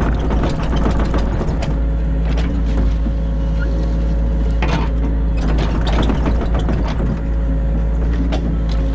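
Excavator engine running steadily, heard from inside the cab, with bursts of clattering and knocking from the working machine during the first few seconds and again around five to seven seconds.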